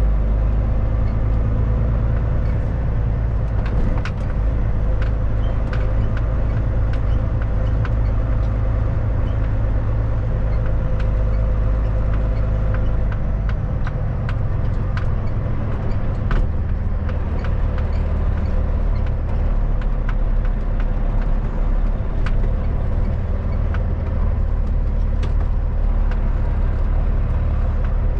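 Kenworth W900 semi truck's diesel engine running steadily under way, a loud low drone with scattered light clicks and rattles; the engine note changes about halfway through.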